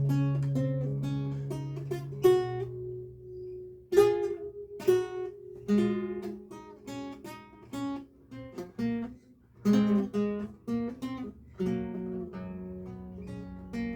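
Lute playing a recercar: plucked single notes and chords, each ringing and dying away, with a low bass note sustained under the first couple of seconds and louder chords struck about four and ten seconds in.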